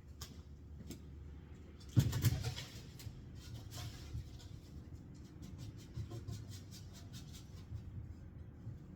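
Workshop handling noise over a low steady hum: one heavy thump about two seconds in, then scattered light clicks and knocks.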